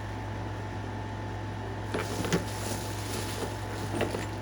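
Steady low hum of room noise, with a few faint clicks of flint pieces knocking together about two seconds in and again near the end.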